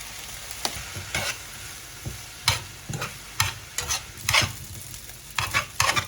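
Japchae stir-frying in an oiled pan, with the glass noodles just added: a steady sizzle under irregular scraping and clacking as a utensil stirs against the pan.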